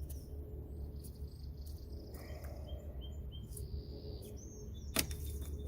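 Faint high bird chirps over a steady low hum. A single sharp click near the end, as a plastic clip on the hood release cable pops open.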